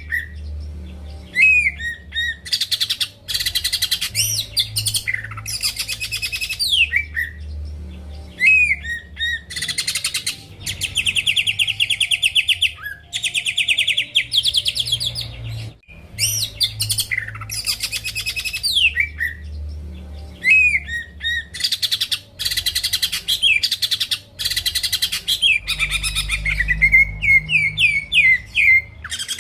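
Cucak ijo (green leafbird) in full song: bursts of fast trills, downward-sliding whistles and chattering note runs, one after another with short breaks, over a low background hum.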